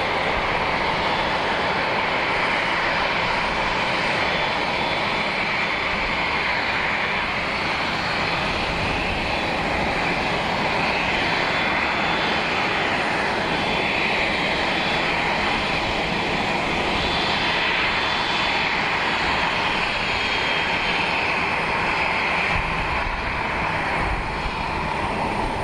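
Airliner jet engines running, a steady loud rush of noise with a faint high whine.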